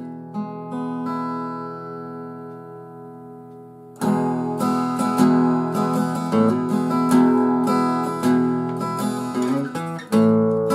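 Acoustic guitar music: quiet picked notes ringing out, then louder strummed chords starting about four seconds in.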